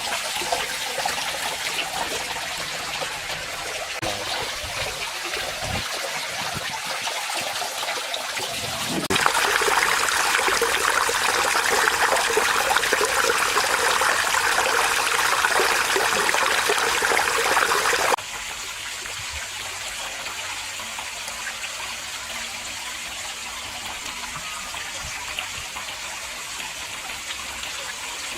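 Water trickling and splashing from a small waterfall into a pond, a steady rush that jumps louder about nine seconds in and drops back to a softer trickle about eighteen seconds in.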